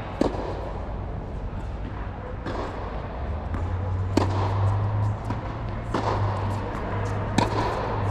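Tennis balls struck by racquets in a drill: five sharp pops about one and a half to two seconds apart. A steady low hum joins about three seconds in.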